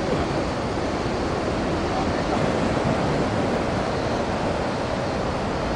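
Steady rush of typhoon-swell surf breaking, mixed with wind on the microphone.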